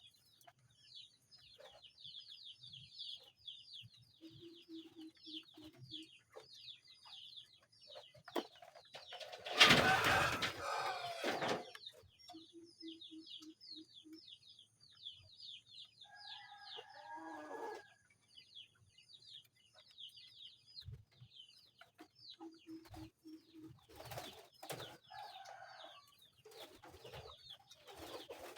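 Birds chirping quickly and almost without pause, with short runs of low clucking notes from chickens three times. About ten seconds in there is a loud, harsh sound lasting about two seconds.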